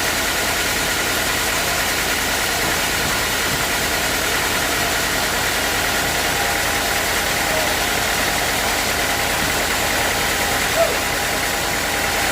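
Sawmill machinery running steadily, an engine and saw drone at a constant pitch and level, with one brief sharp knock about eleven seconds in.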